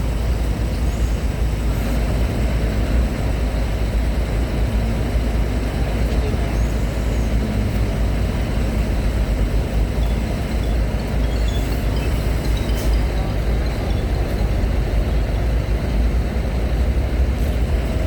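Steady low rumble of heavy vehicle engines as trucks and cars drive onto a ferry.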